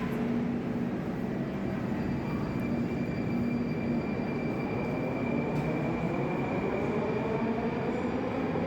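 Moscow Metro train running in the station: a steady rail rumble with a faint hum, and a rising whine from the traction motors over the last few seconds as it picks up speed.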